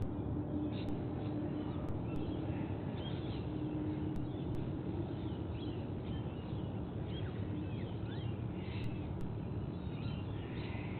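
Birds chirping and whistling in short scattered calls over a steady low background hum.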